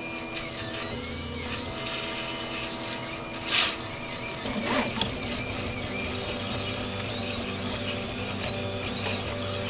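RepRap 3D printer running a print, its stepper motors whining in steady tones that change pitch as the axes move. A short hiss comes about three and a half seconds in, and a click about five seconds in.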